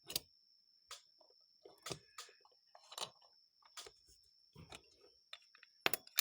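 Light clicks and taps as the parts and levers of a rebuilt Rochester Model H carburetor are handled, roughly one a second, with a quick cluster of sharper clicks near the end.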